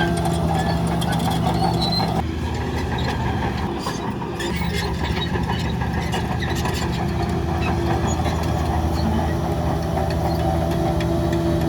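Heavy diesel engine of an earth-moving machine running steadily. Its level drops for a couple of seconds about two seconds in, then picks back up.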